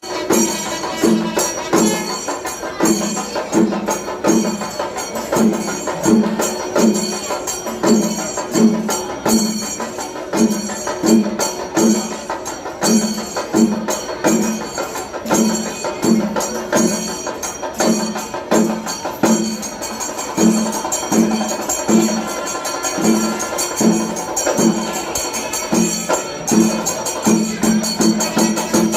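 Traditional percussion music: drums keep a steady, repeating beat under continuous jingling high percussion.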